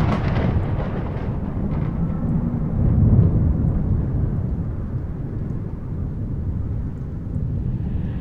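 Dark ambient sound effect: a low, noisy rumble that swells louder about three seconds in, with a few faint hissy streaks near the start.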